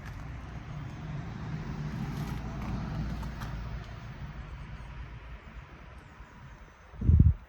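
1970 Porsche 911 Targa's air-cooled flat-six engine driving past, its low note swelling as it approaches and then fading away over several seconds. A short, loud low thump near the end.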